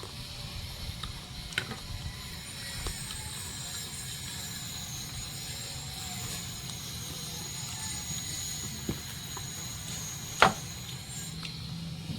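Eating sounds of crispy deep-fried pork knuckle: scattered small clicks and crunches, with one sharp, loud crunch or knock about ten seconds in, over a steady low hum and a faint high whine.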